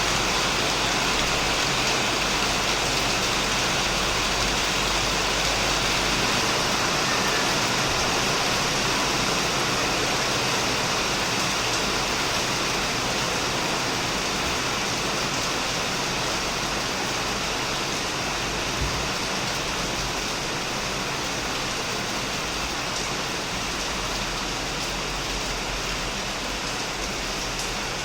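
Heavy rain falling steadily on a shed roof and on plants: an even, unbroken hiss that eases slightly in the second half.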